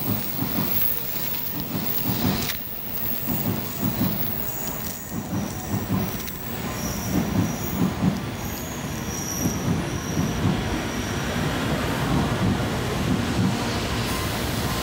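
N700A Shinkansen train rolling slowly into the station as it brakes to a stop. A low rumble of wheels on the rails pulses as the cars pass, and thin high squeals come and go through the middle stretch.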